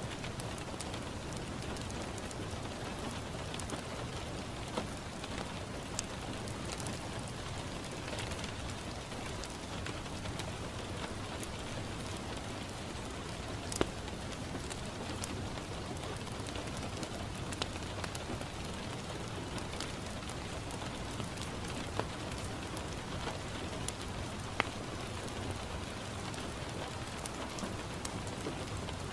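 Steady rain falling on a window, with scattered sharp crackles and pops from a wood fire in a fireplace, a few of them standing out louder.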